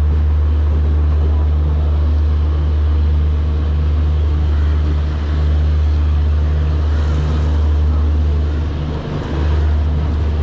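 Indian Railways express train moving off from a station, heard from aboard: a steady low hum and running rumble. The low hum drops out briefly about nine seconds in.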